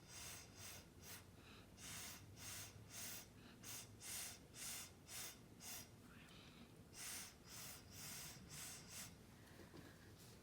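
Short, sharp puffs of breath blown onto wet acrylic pour paint to push it across the canvas, about fifteen puffs in quick runs with a pause about two-thirds of the way through.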